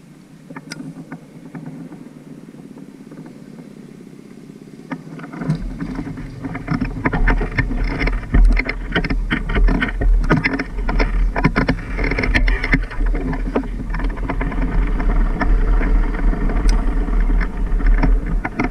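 Off-road motorcycle on the move, heard from an onboard camera: after a quieter stretch with a few clicks, a heavy low rumble sets in about five seconds in, full of rattling knocks and buffeting.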